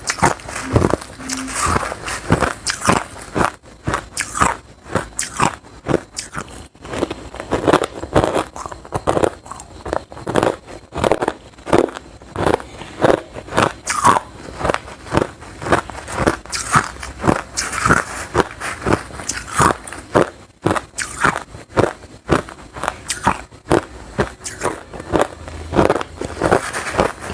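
Close-miked crunching of hard crushed ice between the teeth: repeated sharp bites and chewing, a couple of crunches a second, with no pauses.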